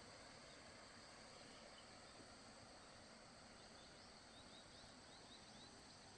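Near silence: faint outdoor ambience with a steady high hiss, and a run of faint, quick high chirps in the second half.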